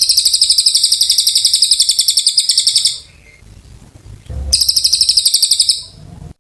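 Cililin songbird singing a rapid, high-pitched trill of evenly repeated notes. It runs for about three seconds, breaks off, then comes back for another second and a half.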